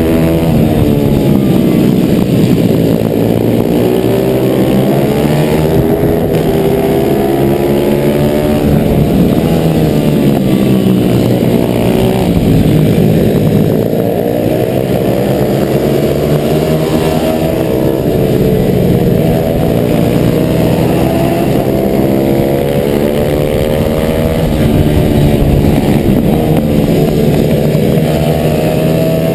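A stock 140cc pit bike's small engine, heard up close from a camera mounted on the bike, revved hard and backed off over and over. Its pitch climbs and drops every few seconds through corners and gear changes.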